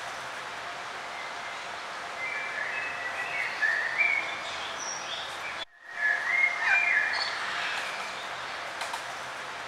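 Songbirds chirping and singing short warbled phrases over a steady outdoor background hiss, busiest in the middle. The sound cuts out for a split second just before the middle, then resumes.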